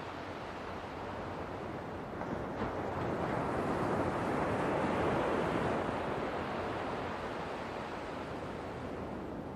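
Ocean waves breaking and washing ashore: a steady surf hiss that swells into one louder wave a few seconds in, then slowly subsides.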